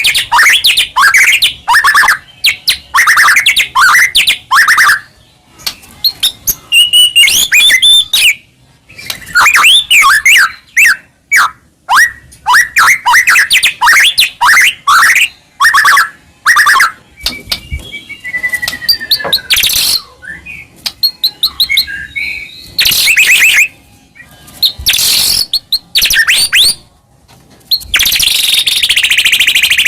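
White-rumped shama singing loudly in quick, varied phrases of whistled and warbled notes that glide up and down, with short pauses between phrases. In the second half the song is broken by several harsh, rasping bursts.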